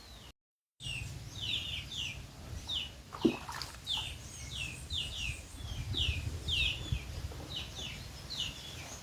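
A bird chirping over and over in short, high, downward-sliding notes, about two a second, with a low rumble underneath and one sharp click a few seconds in.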